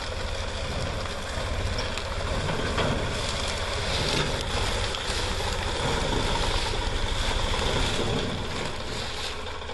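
John Deere 5104 tractor's diesel engine running steadily, with a fast even low pulsing under a broad noise.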